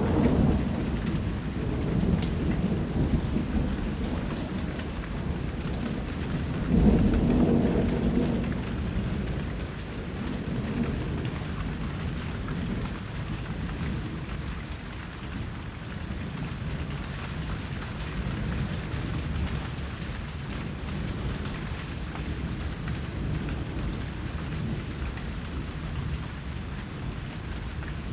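Steady rain with thunder: a low rumble fading out at the start and a louder rolling rumble about seven seconds in, then rain falling evenly.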